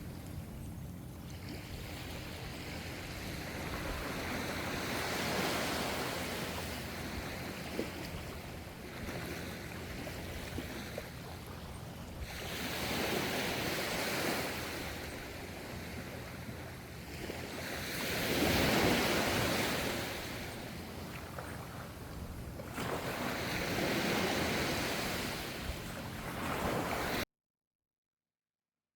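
Ocean waves washing ashore, the surf swelling and fading four times over a steady low rumble. The sound cuts off suddenly near the end.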